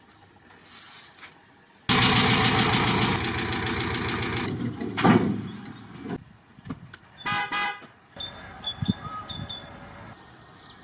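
A car horn honks once, briefly, after a loud stretch of running noise and a sweep. Three short high chirps follow.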